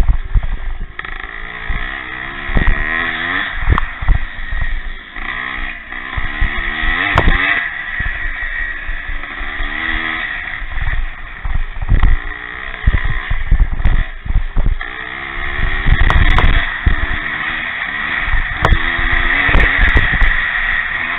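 Pre-1965 motocross motorcycles racing, their engines revving up and down as they are ridden around the track. Frequent low thumps run through it.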